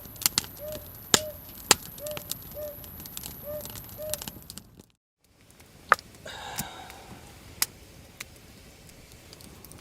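Campfire wood crackling and popping with sharp irregular snaps. In the first half a short call repeats about twice a second over it. The sound cuts out briefly about halfway, then the crackling resumes.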